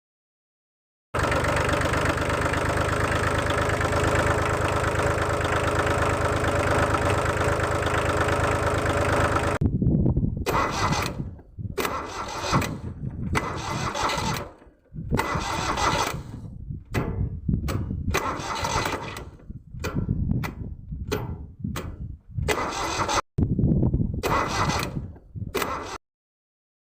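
An engine running steadily for about eight seconds, then a string of short bursts of engine sound that start and stop abruptly.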